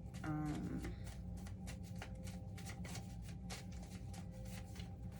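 A brief hummed voice sound just after the start, then scattered soft clicks and ticks over a steady low hum and faint held background tones.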